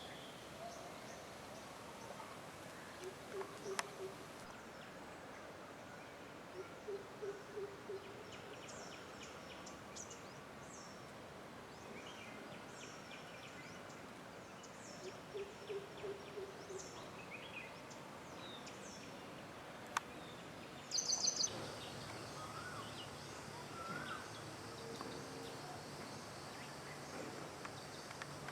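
Wild birds calling in a forest: a low call of several quick hooting notes comes three times, over thin high chirps from smaller birds, with a short burst of rapid high notes a little past two-thirds through.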